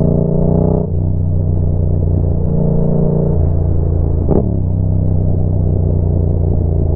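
Yamaha MT-07 parallel-twin engine idling through a Roadsitalia aftermarket exhaust with the dB killer removed. It is given a couple of light revs and one sharp throttle blip about four seconds in, then drops back to a steady idle.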